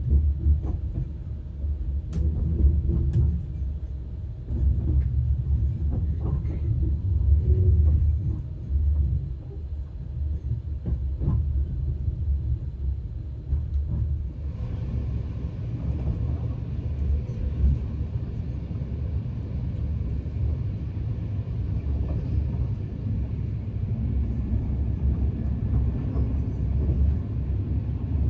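Passenger train running, heard from inside the carriage: a steady low rumble with a few sharp knocks in the first half, and a little more hiss from about halfway on.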